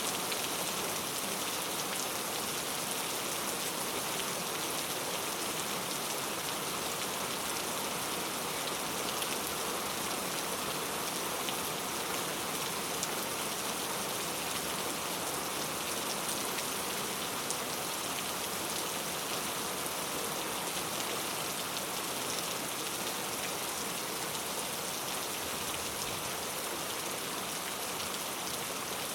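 Steady rain falling, an even hiss of many drops hitting a surface, with faint individual drop ticks.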